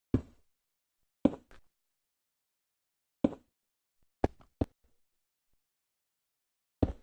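Six short, sharp knocks at irregular intervals, two of them in quick succession just after the middle, with dead silence between.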